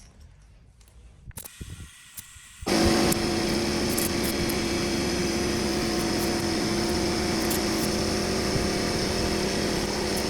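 Air compressor running steadily while it inflates a plugged truck tire to about 35–37 psi. It starts about three seconds in, after a faint hiss.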